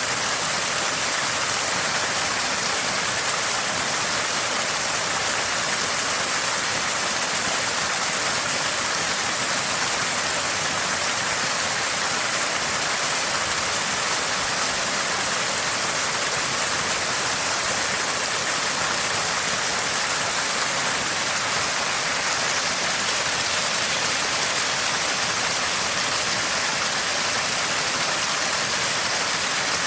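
Small spring water gushing and gurgling in a steady stream, an even hiss with no breaks.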